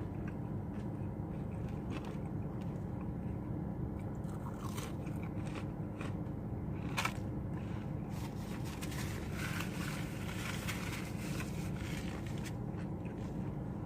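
Chewing and biting into crunchy fried onion rings: soft crackly chewing with a few sharp crunches, over a steady low background hum.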